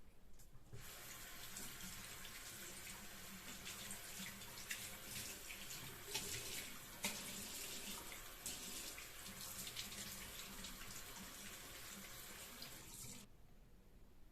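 Water running from a tap into a sink. It comes on about a second in and is turned off near the end, with a few small knocks over it.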